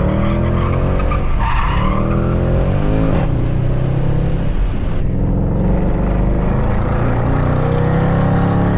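Mercedes C63 AMG's 6.2-litre V8 with the secondary cats and resonators deleted, pulling hard under load: its pitch climbs, drops back at each upshift and climbs again, several times.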